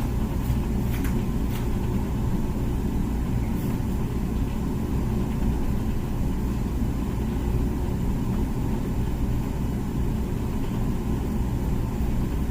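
Comfee dishwasher running mid-cycle: a steady low hum from its pump motor, with a few light clicks in the first second and a half.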